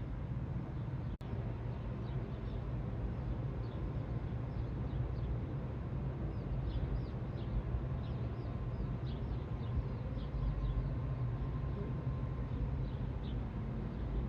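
Steady low rumble of road traffic, with many short, high, downward-sliding bird chirps scattered through the middle. The sound cuts out for an instant about a second in.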